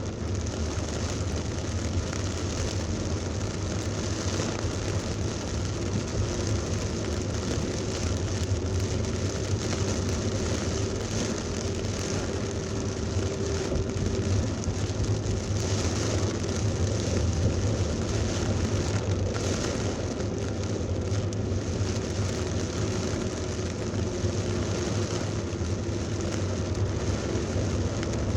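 Heavy rain pouring down steadily in a thunderstorm, over a constant low rumble of vehicles in traffic.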